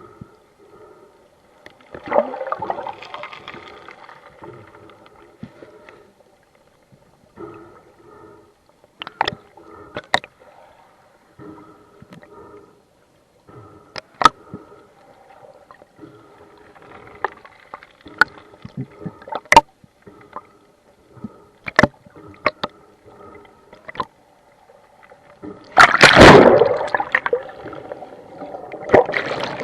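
Water sloshing and gurgling around a diver's camera in rough, choppy sea, with scattered sharp clicks and a loud rush of water about 26 seconds in.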